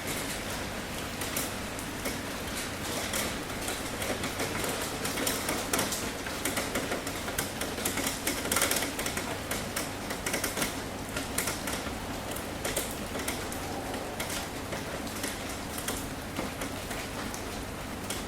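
Rain on a tin roof: a steady hiss with many irregular sharp taps of drops striking the metal, thickest and loudest in the middle.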